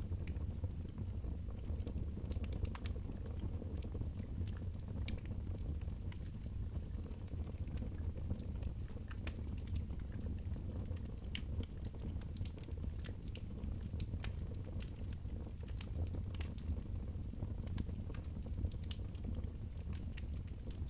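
Fireplace fire burning: many scattered sharp crackles and pops over a steady low rumble.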